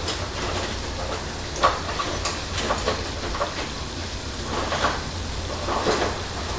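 Food frying in hot oil on the stove: a steady sizzle with a few sharper pops and crackles scattered through it.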